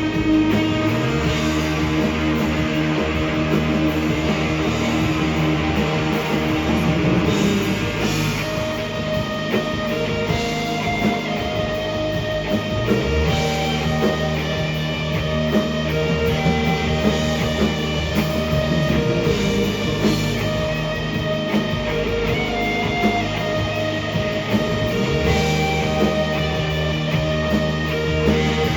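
Rock band playing an instrumental passage: electric guitars over long held bass notes and drums with cymbals, the bass changing note about every six seconds.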